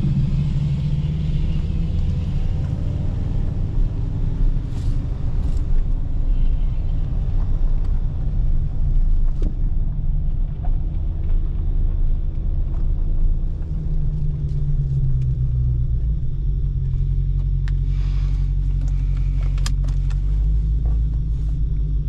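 Dodge Hellcat Redeye's supercharged 6.2-litre HEMI V8 running with a steady low rumble, its pitch shifting about two-thirds of the way through. A few light clicks near the end.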